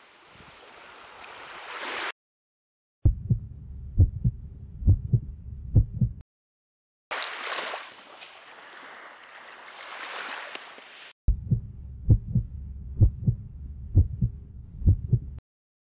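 A heartbeat, paired thumps in a steady rhythm over a low rumble, alternates with the rushing wash of sea water over a pebble shore. Each part cuts off abruptly, with a moment of silence before the next: water, heartbeat, water, heartbeat.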